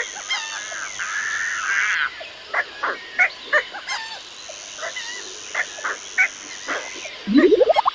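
Animal calls played as pelican sounds: many short chirps and squawks over a steady high insect-like whine, ending with a quickly rising, pulsing call.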